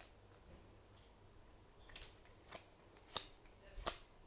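Trading cards being handled and laid down, giving a few soft clicks that come more often in the second half, the loudest near the end.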